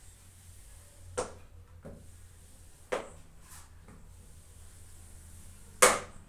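A few sharp, short knocks or taps against a low steady hum: one about a second in, a fainter one just after it, another at about three seconds, and the loudest near the end.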